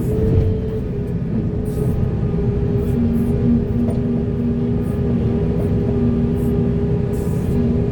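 Heavy diesel earthmoving machine running steadily, a low engine rumble with a steady whine over it.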